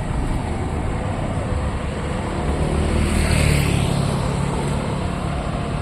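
Road traffic: a steady low rumble, with one vehicle passing close by about three seconds in, its engine and tyre hiss swelling and fading.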